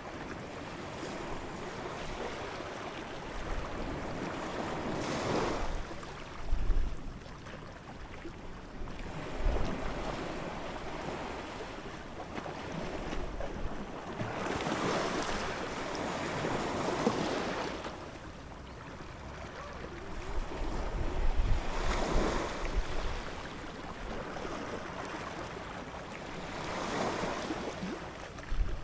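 Ocean surf: waves swelling and breaking about every five seconds over a steady wash of water, with bursts of low rumble.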